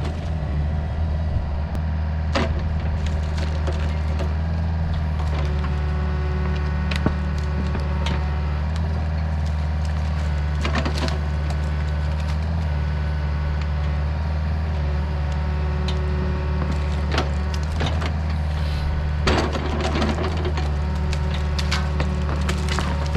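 Wood cracking and splintering in several sharp snaps at irregular intervals, over the steady drone of a heavy machine's diesel engine working a tree.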